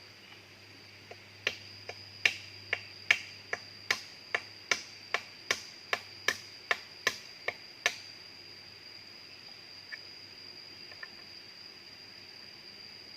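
A series of about seventeen sharp knocks at an even pace, roughly two and a half a second, starting about a second and a half in and stopping about eight seconds in. A steady high-pitched tone runs underneath.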